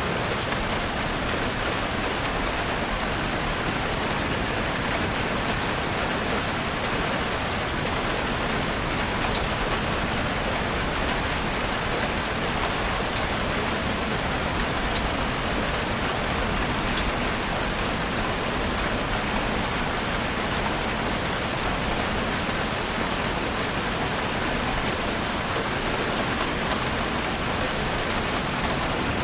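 Heavy rain falling steadily on a chalet roof: a dense, even hiss with scattered sharp drop ticks.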